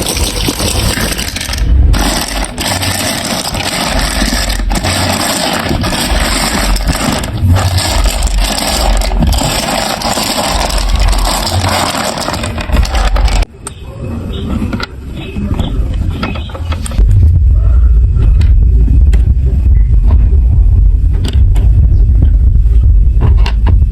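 Marbles rolling and clattering through a plastic marble run, a dense continuous rattle full of clicks. A little past halfway it cuts off suddenly, leaving scattered clicks over a heavy low rumble.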